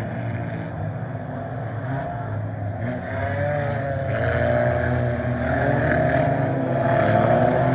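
Several scramble race cars' engines running hard around the track, their pitches rising and falling as they accelerate and pass, overlapping one another. The sound gets somewhat louder from about three seconds in.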